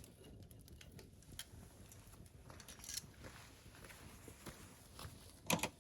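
Wood campfire crackling quietly, with scattered small ticks and pops and one louder, sharper crack near the end.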